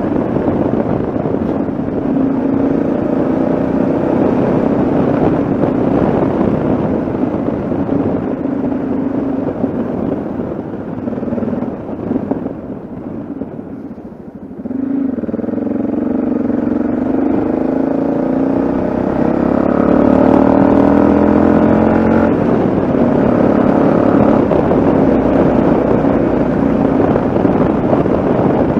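Yamaha XT 660Z Ténéré's single-cylinder engine running under way with road and wind noise. About halfway through it eases off and goes quieter, then picks up again with rising pitch before settling back to a steady cruise.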